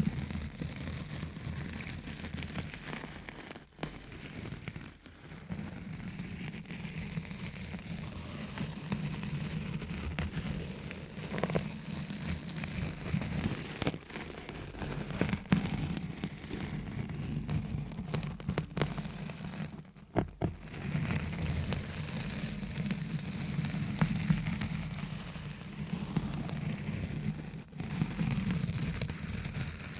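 Fast scratching and tapping directly on a microphone, a dense continuous crackling texture with a few brief pauses.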